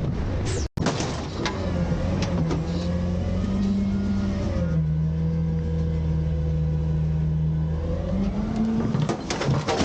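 Garbage truck's diesel engine revving up and holding a high, steady speed, as it does to drive the hydraulics while bins are lifted and dumped; it climbs again near the end. Sharp metal clanks come near the end.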